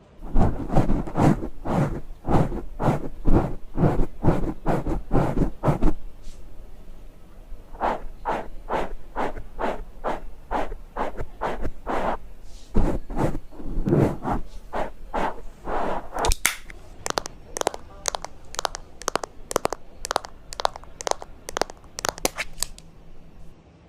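Quick, rhythmic scratchy strokes of makeup being applied close to the microphone, about two a second for the first six seconds. After a short pause the strokes resume, and later they speed up to about four a second with a brighter, sharper sound.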